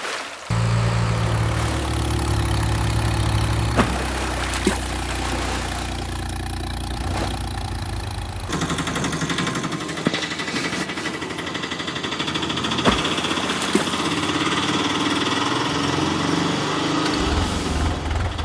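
Vehicle engine running steadily, starting about half a second in and shifting to a different, higher sound around eight seconds in, with a few sharp clicks.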